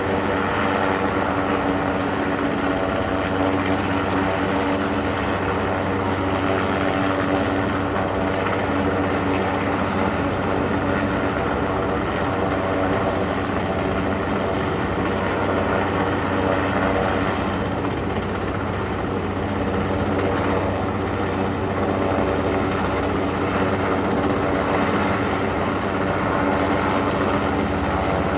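Helicopter running steadily overhead, a loud continuous rotor and engine noise that dips slightly about two-thirds of the way through.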